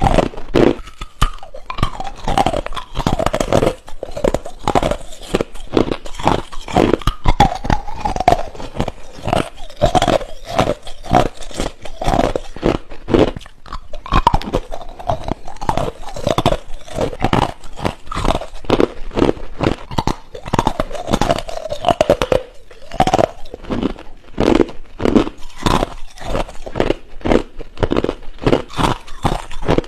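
Ice being bitten and chewed close to the microphone: loud, rapid crunching, several crunches a second.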